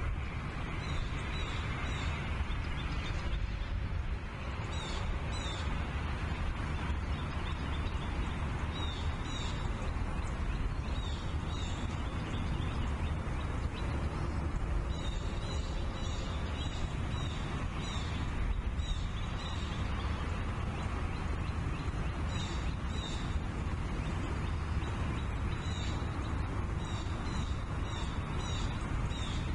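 Steady wind rumble on an outdoor microphone, with short, falling, high-pitched chirps in quick series every few seconds: bald eagles calling at the nest.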